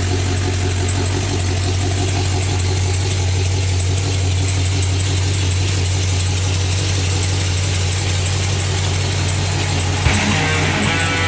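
Cadillac CTS-V's supercharged 6.2 L V8, fitted with a BTR stage 2 cam, long-tube headers and Flowmaster FlowFX mufflers, idling steadily with the choppy idle of its cam. About ten seconds in, rock music starts over it.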